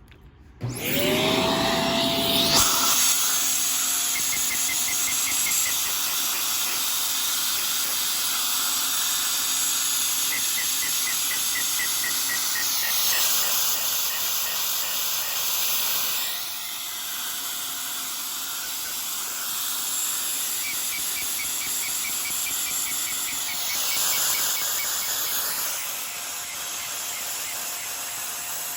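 A vacuum cleaner switches on about half a second in, its motor whine rising and settling into a steady note over a loud rushing of air, as it draws suction through a Lego vacuum engine. A faint rapid ticking comes and goes, and the whine drops out twice for a few seconds.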